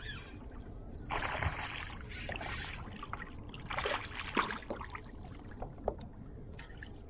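Kayak paddling: two splashy paddle strokes in the water, about a second in and near four seconds in, followed by a few short light clicks.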